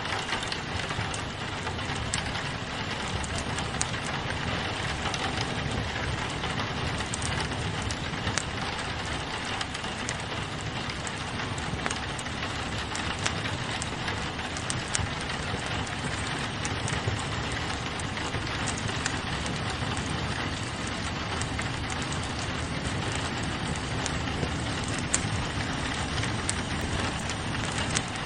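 Steady rain hissing against a window, mixed with a wood fire crackling, its pops and snaps scattered as sharp clicks throughout.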